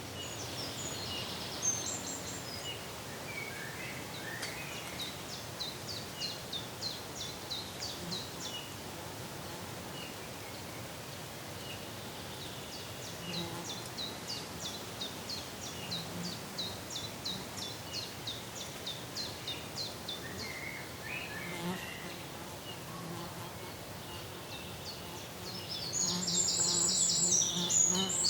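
Outdoor ambience: a steady hiss with two long runs of short, high chirps repeating about three times a second. Near the end comes a louder, denser burst of high chirping.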